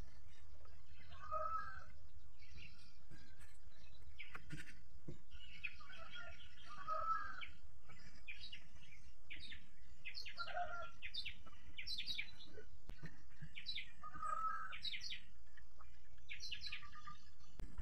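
Birds singing outdoors: a short warbled phrase repeats about every four seconds, with quick high chirps in between.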